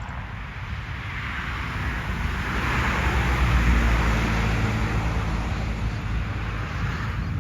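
A vehicle passing by: a low rumble and hiss swell to a peak a few seconds in, then fade.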